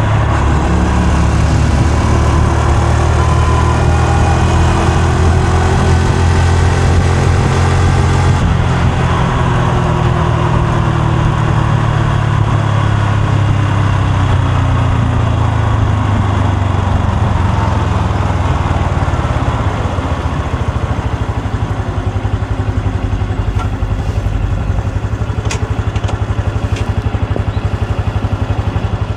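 Honda Super Cub C125's air-cooled single-cylinder four-stroke engine and exhaust while riding, the engine note falling as the bike slows. About two-thirds of the way through it settles into a steady, even idle pulse.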